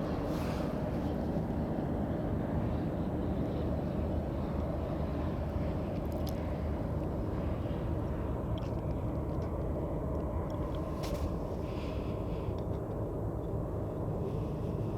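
Steady low rumble of a freight train's diesel locomotives, with a couple of faint short clicks.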